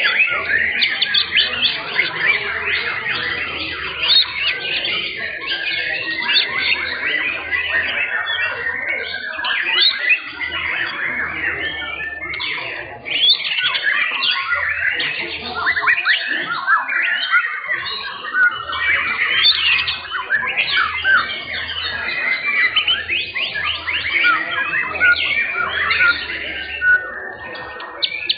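Young white-rumped shamas (murai batu) singing together in competition: a dense, unbroken stream of fast chirps, trills and whistled glides.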